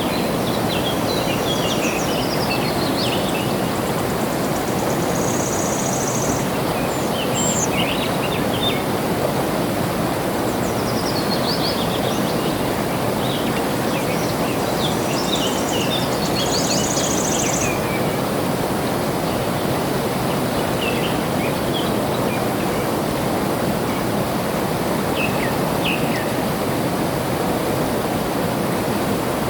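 Flowing water rushing steadily, with songbirds chirping in scattered bursts over it, busiest in the first few seconds and again from about ten to eighteen seconds in. Twice a short high buzzy trill.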